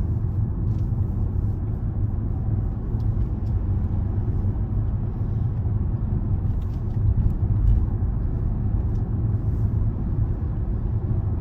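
Steady low road and engine rumble inside the cabin of a Range Rover driving along.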